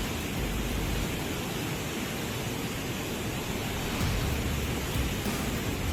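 Floodwater rushing over an overflowing dam, a steady, even rush of water.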